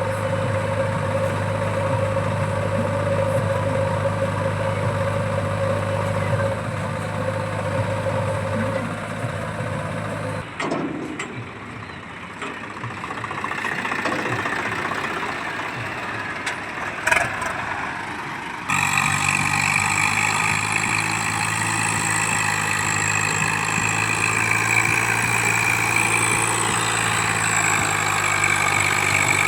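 Diesel engines of a JCB backhoe loader and farm tractors running steadily at soil loading, with the engine sound changing abruptly about ten seconds in and again near nineteen seconds.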